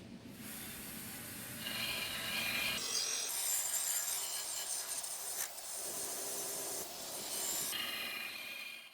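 An abrasive tool scraping rust off an old cart's thin metal legs: a continuous rasping scrape whose tone shifts every second or two as the contact changes.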